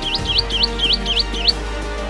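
A bird calling in a quick series of seven identical high notes, each dipping and then sweeping sharply up, about four to five a second, stopping about one and a half seconds in. Background music plays throughout.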